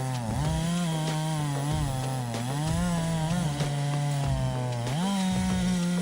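Big-displacement chainsaw (about 120 cc, 36-inch guide bar) running at high revs while cutting wood. Its engine note dips several times as it bogs under load in the cut and rises again as it eases off, with a clear rise about five seconds in.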